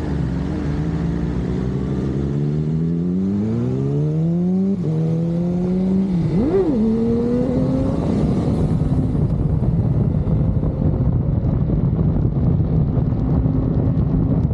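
Sport bike engine accelerating, its pitch climbing steadily for about five seconds, dropping sharply at a gear change, then a quick rev blip about six and a half seconds in before settling into a steady cruise.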